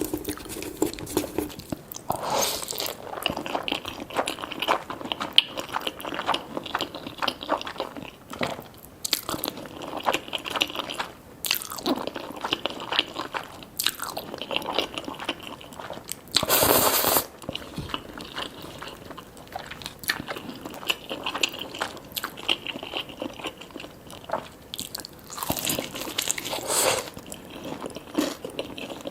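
Close-miked eating: crunchy bites and chewing of honey yangnyeom fried chicken, a steady run of crackles with two louder crunching stretches, one a little past halfway and one near the end.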